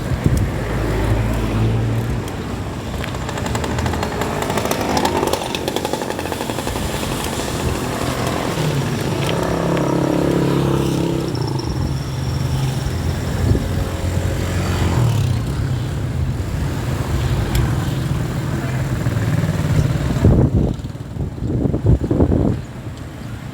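Road traffic with motor vehicle engines, motorcycles among them, running and passing, over a steady rush of wind and road noise. An engine's pitch rises and falls as it goes by about ten seconds in.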